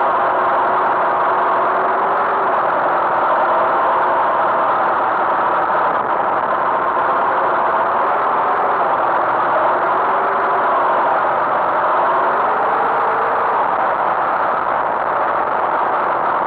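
Tractor engine running steadily, its pitch wandering slightly up and down.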